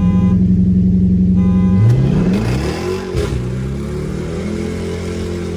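A car horn honks to start the race while a car engine holds raised revs. About two seconds in, the engine revs up hard as the car launches, then pulls on up through the gears with rising and falling pitch.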